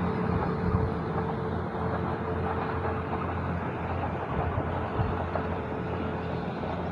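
Steady rumble of a train running through the station at speed, wheels on rail with a low engine hum under it.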